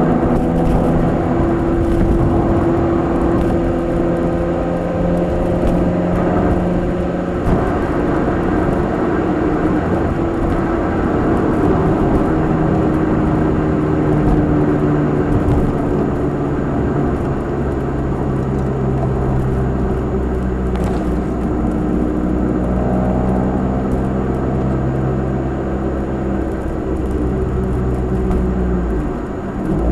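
Nissan March 12SR's four-cylinder engine through a Kakimoto aftermarket exhaust, heard from inside the cabin while driving, a steady engine drone over road noise. The engine pitch steps to a new level about a quarter of the way in and drops briefly near the end, as the revs change.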